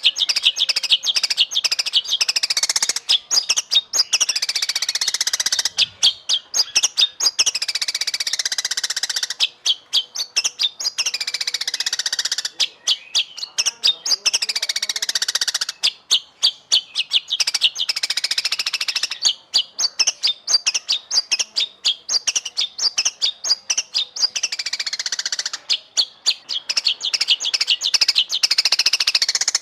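White-rumped shama (murai batu) singing continuously: loud, varied phrases of rapid repeated chips, alternating with falling whistled sweeps, broken by short pauses.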